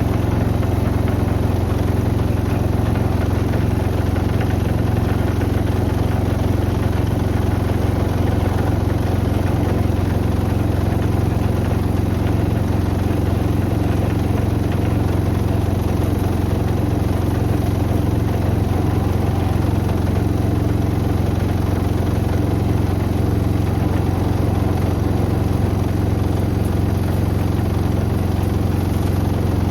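Beko WM74135 washing machine running with a steady, even hum that holds without change.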